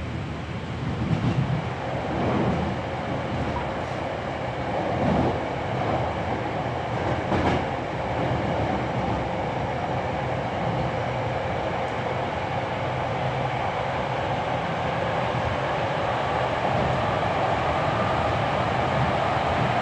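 Running sound inside a Hankyu 7300-series electric train car, with its field-chopper-controlled DC compound motors: a steady rumble of wheels and motors on the track. A few knocks come in the first eight seconds, and the sound grows slightly louder near the end.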